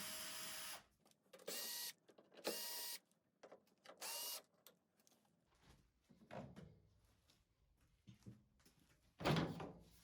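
Cordless screwdriver motor running in four short bursts, undoing screws while the Indesit washing machine is taken apart. Then a few knocks, the loudest near the end.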